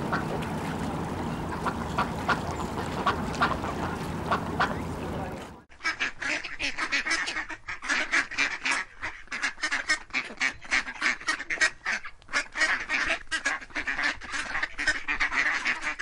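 A steady rush of water with a few faint short calls from a swimming flock of diving ducks. About five and a half seconds in, this cuts to white Pekin ducks quacking rapidly and continuously, many loud quacks overlapping.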